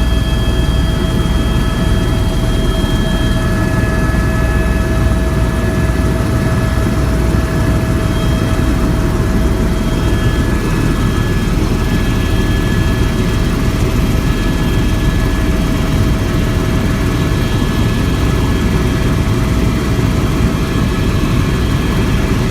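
Helicopter in flight heard from inside the cabin: a loud, steady rumble of rotor and engine with a constant high whine over it.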